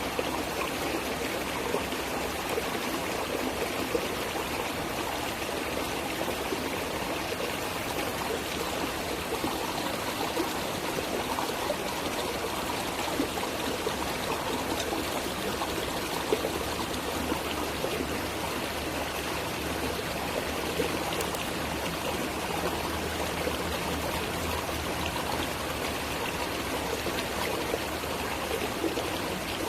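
Water flowing steadily over rocks, an even rushing with small splashes and trickles.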